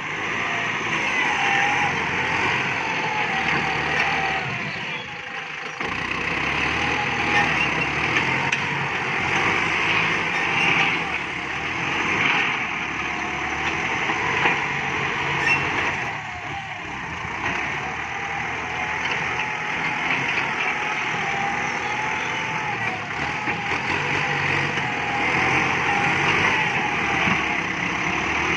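Kubota MU5702 tractor's diesel engine running steadily on its original exhaust pipe, its pitch wavering up and down with the load, briefly easing off twice.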